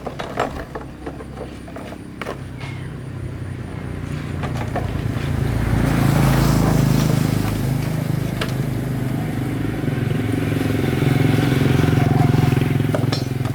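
An engine running with a steady low hum that builds over the first few seconds and then holds, with a few sharp clicks early and near the end.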